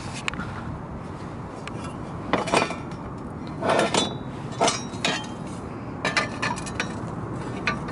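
Loose steel parts and tools clinking and clanking as they are handled and set down, in a few irregular knocks with a short metallic ring about four seconds in.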